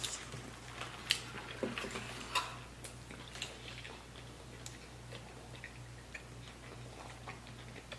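Chewing and mouth clicks from people eating a fried chicken sandwich: scattered soft ticks, sharper in the first few seconds and fainter after.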